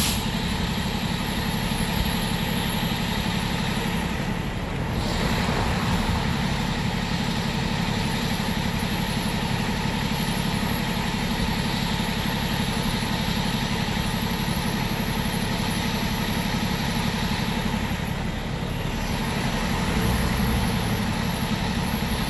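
A 4x4 vehicle's engine running steadily at idle or low speed. The higher sound thins out briefly twice.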